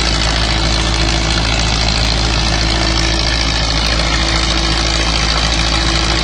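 Tractor engine running steadily at idle, a constant deep drone that does not change.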